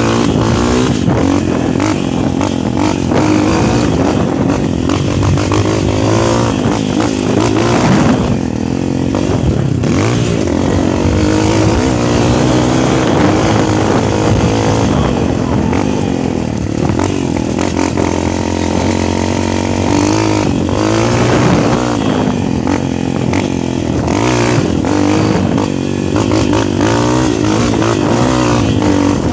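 Motocross bike engine revving hard, its pitch rising and falling again and again with the throttle.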